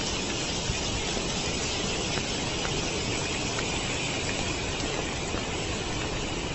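Storm wind and rain from a cyclone: a steady rushing hiss with a few faint scattered ticks.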